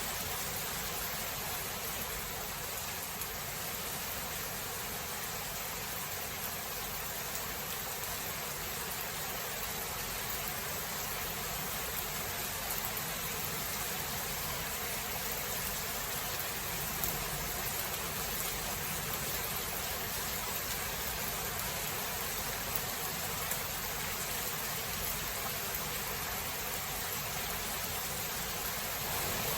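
Steady rain falling in a thunderstorm, an even hiss with no thunder.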